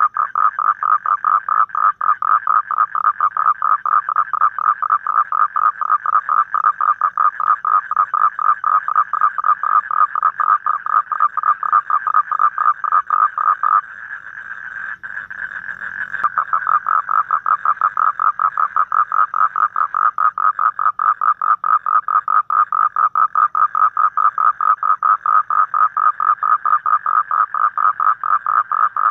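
Asian common toad giving its long, rapid pulsed trill, a steady run of fast even notes. The trill breaks off for about two seconds halfway through, then resumes.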